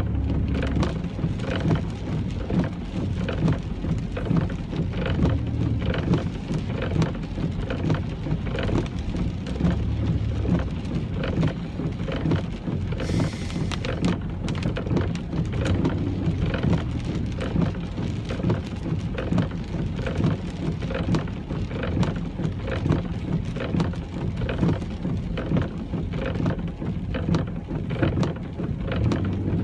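Heavy rain pattering on a moving car, a dense, irregular spatter of drops over the low rumble of the engine and tyres. A brief hiss comes in about thirteen seconds in.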